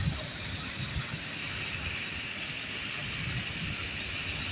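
Steady outdoor noise: a low rumble under an even hiss, with no distinct event.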